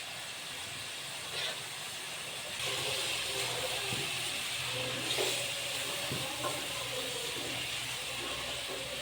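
Chicken curry sizzling and hissing in the pan as its liquid cooks off over high heat. The hiss grows louder about two and a half seconds in, with a few light knocks.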